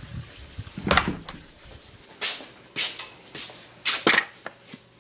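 Several short knocks and scuffs, about one every half second to second, with no engine running.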